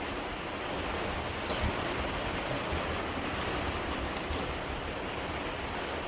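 Steady rushing of a river flowing, with a low rumble underneath and a few faint clicks.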